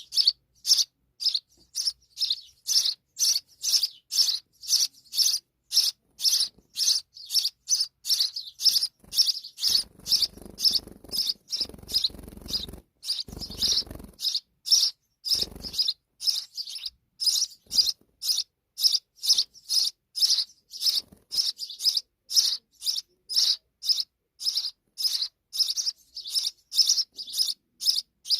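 Sparrows chirping, short high chirps repeated steadily about two to three times a second.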